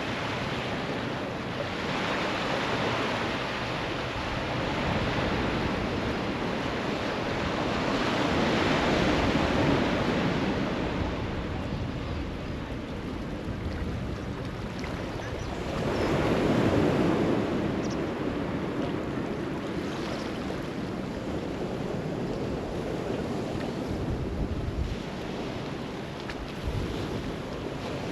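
Sea waves washing onto the beach, surging and ebbing about every seven seconds, the biggest swell about two-thirds of the way through, with wind rumbling on the microphone.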